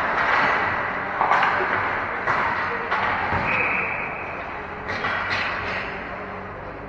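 Ice hockey play echoing in an arena: skates scraping on the ice under a steady wash of noise, with several sharp knocks of sticks and puck, and a brief high steady tone about three and a half seconds in.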